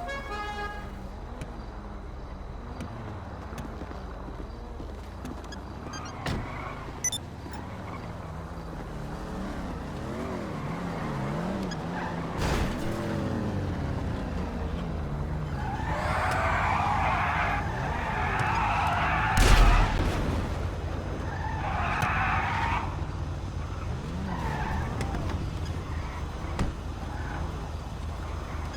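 Car engines revving up and down, with stretches of tyre screech in the second half and a single loud bang about two-thirds of the way through.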